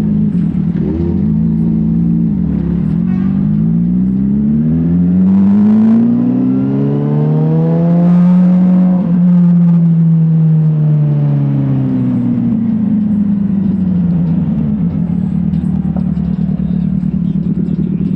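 Motorcycle engine under way. It steps up through its revs a few times, then climbs steadily in pitch to a peak about eight or nine seconds in, with a brief dip there. After that it falls back down and settles into a steady cruise.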